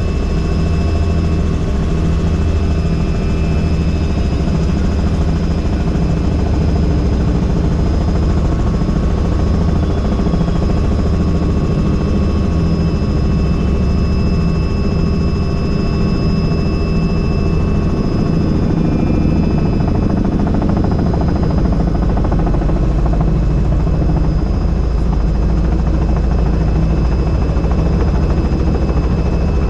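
Helicopter in flight, heard from inside the cabin: a loud, steady rotor and engine drone with a thin high whine held over it.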